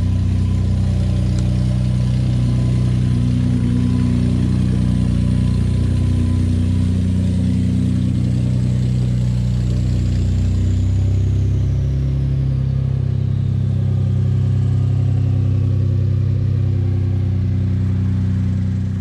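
Ford F-150's 3.5-liter EcoBoost twin-turbo V6 idling steadily just after a cold start, with a rattle from the engine bay that sounds awful. The owner takes it for the typical EcoBoost cold-start rattle, from either a stretched timing chain or a dry start with the oil drained to the bottom of the engine. A faint high whine falls in pitch about two-thirds of the way through.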